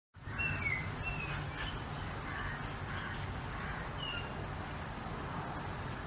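Outdoor ambience that cuts in suddenly: a few short bird chirps, the first sliding down in pitch, over a steady low rumble.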